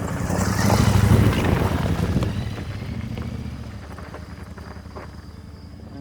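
Royal Enfield Interceptor 650's 648 cc parallel-twin engine running. A rush of noise swells over it to its loudest about a second in, then eases, and the engine settles lower and steadier.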